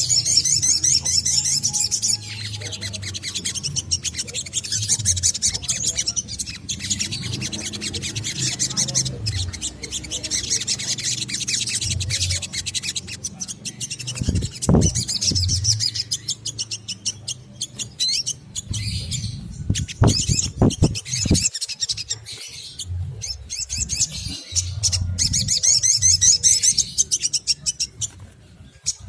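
Olive-backed sunbird singing: rapid, high-pitched twittering trills in repeated bursts, over a low background hum with a few knocks in the middle.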